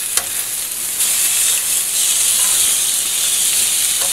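Chicken cutlets and capers frying in butter and olive oil in a pan: a steady high sizzle that grows louder about a second in. A brief click sounds near the start.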